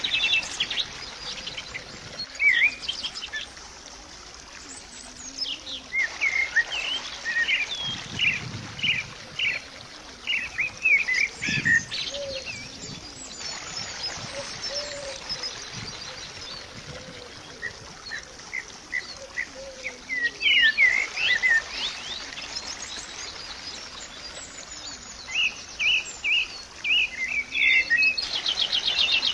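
Small birds chirping, in quick runs of short high calls separated by pauses of a few seconds.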